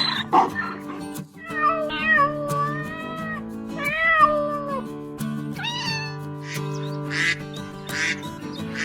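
Cat meowing several times over background music, with a couple of rougher animal calls near the end.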